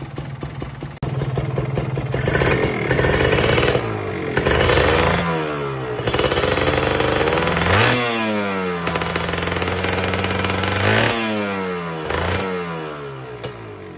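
Kawasaki Ninja R two-stroke single with an aftermarket Aitech Kobra exhaust, idling with a crackle, then revved up about a second in. It is revved repeatedly: it rises, holds high revs and falls back several times, with a quick blip near the end before settling down.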